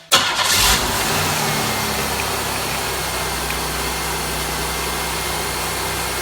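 Buick's 3.8-litre 3800 Series II V6 starting, flaring briefly in the first second, then settling into a steady idle. It runs normally with the newly replaced alternator and its accessory belt staying on, and it sounds okay.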